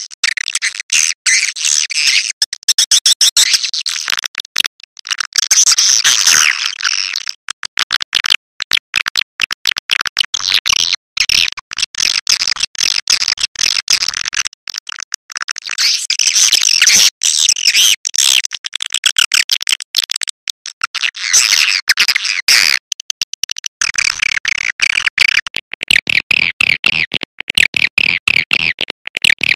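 Swiftlet call recording used as a lure for nesting swiftlets: dense, rapid, high-pitched chirping and twittering from many birds, broken up by frequent abrupt short gaps.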